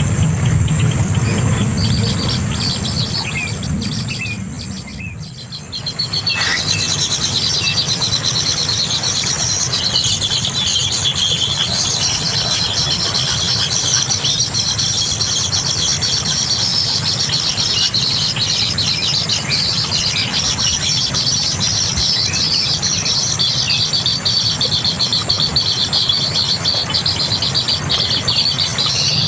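Young kingfisher calling with a high, rapid, continuous chatter that starts about six seconds in. Before that there is a low hum that fades out.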